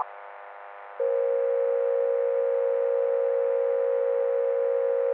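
Steady electronic alert tone held at one mid pitch, starting about a second in after a moment of faint hiss. It is the attention signal of an emergency alert broadcast, sounding just before the alert message.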